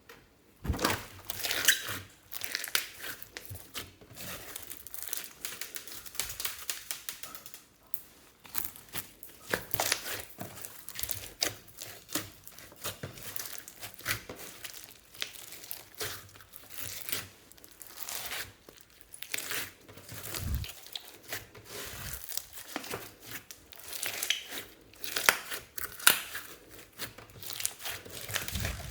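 Slime being squeezed and stretched by hand, giving an irregular stream of crinkling, crackling clicks.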